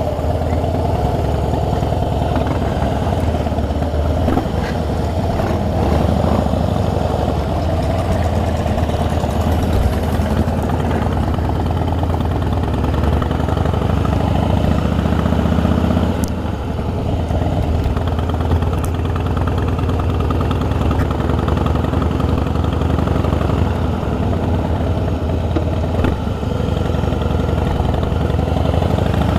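Harley-Davidson V-twin motorcycle engine running steadily at low revs, a deep even rumble.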